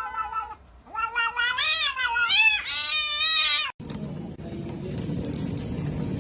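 A domestic cat yowling in long, drawn-out meows that waver up and down in pitch: one trails off in the first half-second, then after a short pause two more follow. The sound cuts off abruptly about four seconds in, giving way to a steady rushing noise.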